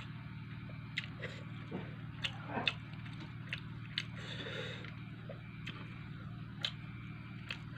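Close-up eating sounds: a person chewing fried fish and rice, with irregular wet mouth smacks and clicks. A steady low hum runs underneath.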